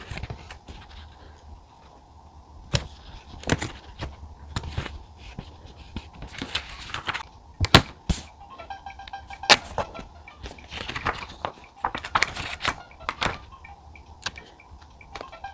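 Close-up desk sounds of writing by hand in a notebook: a string of sharp taps and knocks from a pen and objects set on the desk, with two stretches of brushing, rustling paper sound. Faint background music runs underneath.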